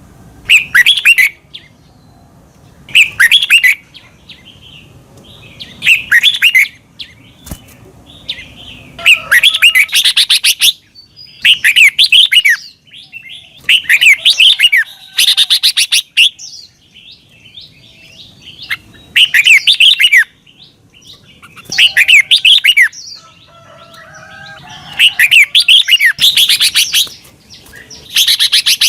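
Red-whiskered bulbul singing: short, loud phrases of quick rising and falling whistled notes, repeated every one to two seconds.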